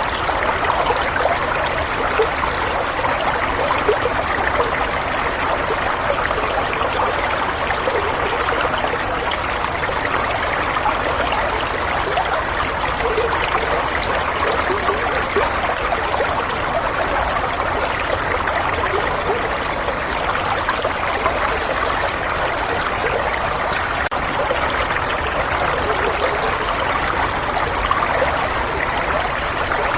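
Flowing water running steadily, an even rush of water that goes on without change.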